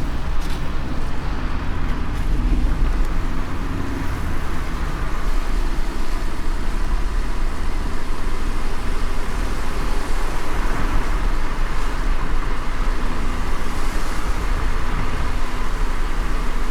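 Moving car's steady low engine and road rumble, running without letup.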